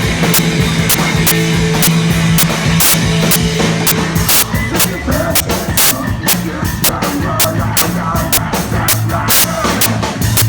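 Live rock band playing loud, heavy music: a steady drum beat with cymbal strikes over a sustained, low bass drone. The mix shifts about halfway through.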